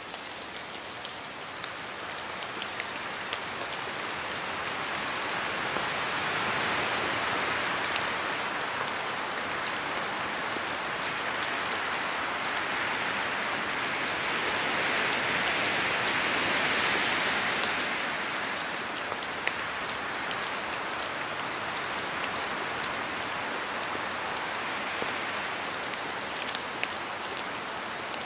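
Steady rain falling, with scattered individual drops ticking close by. The rushing swells louder about a quarter of the way in and again past the middle.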